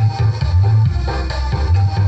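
Music played loud through a home-built speaker system, with heavy, long-held bass notes.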